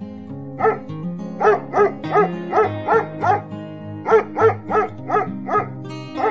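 A dog barking: about a dozen short barks, some in quick pairs, over steady background music.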